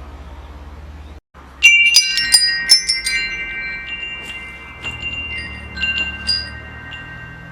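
Metal wind chimes: a sudden cluster of tube strikes about one and a half seconds in, several clear tones ringing on and slowly fading, with a few lighter strikes again past the middle.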